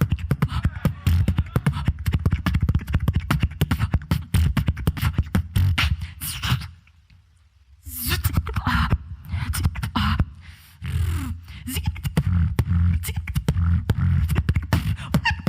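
Solo beatboxer performing a fast beat of mouth-made kick drums, snares and hi-hat clicks. The beat stops for about a second near the middle, then comes back in.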